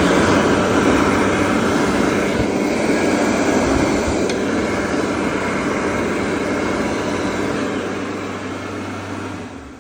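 Bobrick Aircraft B-750 hand dryer running: a loud, steady rush of blown air over a low motor hum, coming on at once and dying away near the end as it shuts off. It sounds rough.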